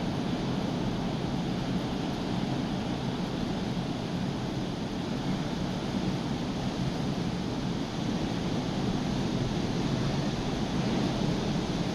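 Heavy surf of a rough, hurricane-driven sea breaking on a beach, a steady rush of wave noise, with wind blowing on the microphone.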